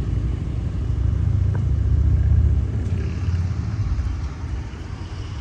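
Diesel engines of CAT track-work equipment running as the machines move along the track, a low rumble that swells about two seconds in and eases off toward the end. A single sharp click sounds about a second and a half in.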